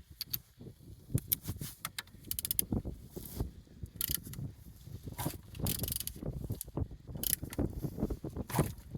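Volkswagen 1.9 TDI (BXE) four-cylinder diesel engine being turned over by hand with a wrench on the crankshaft: irregular mechanical clicks and clunks with no running engine. The crank turns freely and the engine holds compression.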